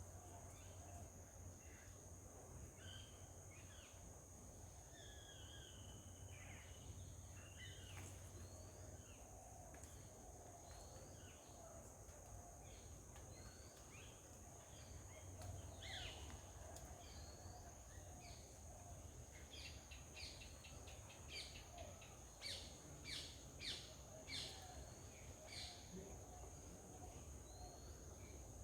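Faint birdsong: scattered short chirps and calls, then a run of sharp repeated calls near the end, over a steady high-pitched insect drone.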